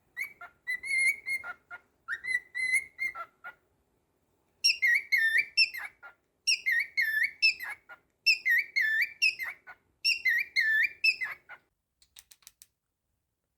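Cockatiel whistling a tune: two phrases of held notes, then the same quick wavering phrase four times over. A few faint clicks follow near the end.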